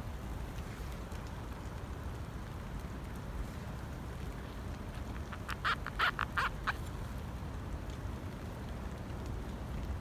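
A bird calling, a quick run of about six short notes about halfway through, over a steady low rumble of wind.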